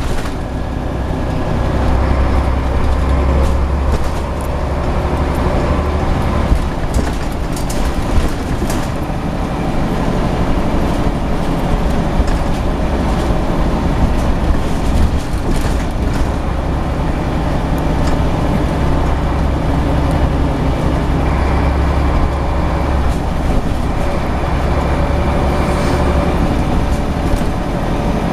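Scania CN94UB Omnicity single-deck bus under way, its diesel engine and drivetrain running steadily with a deep rumble that swells twice as it pulls harder. A few short knocks and rattles cut through.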